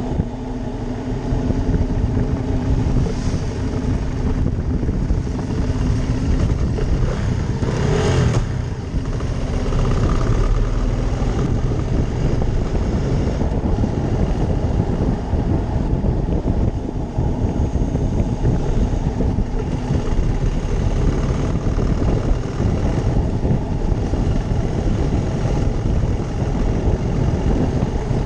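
Ducati Monster 620's air-cooled L-twin engine running at road speed while riding, mixed with heavy wind rush. There is a brief louder rush of noise about eight seconds in.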